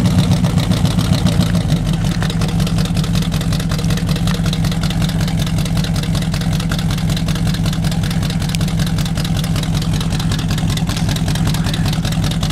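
1973 Chevrolet Monte Carlo V8 idling after a cold start, with an uneven, pulsing beat for the first second or two before it settles into a steadier idle.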